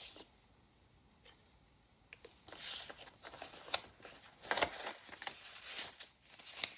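Paper rustling and sliding as the pages, envelope and booklet of a handmade junk journal are handled, starting about two and a half seconds in, with irregular light clicks and a sharper tap about four and a half seconds in.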